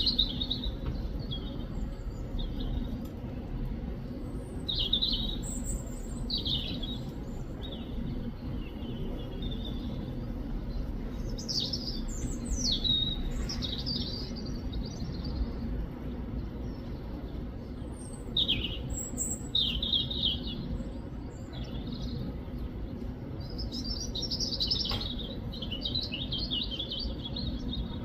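European robin singing: short, varied high-pitched phrases of thin whistles and trills with pauses between them, and a longer warbling phrase near the end, over a steady low background noise.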